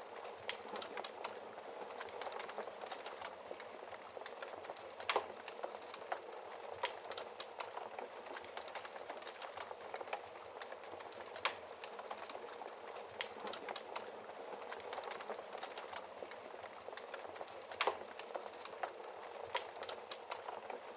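Wood fire in a fireplace crackling: a steady hiss of burning with frequent small crackles and a few louder pops spread through.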